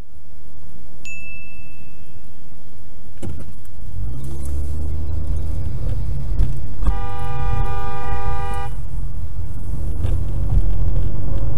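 Road and engine noise from a moving car, with a car horn honking once and held for about two seconds, about seven seconds in. A short high beep sounds about a second in.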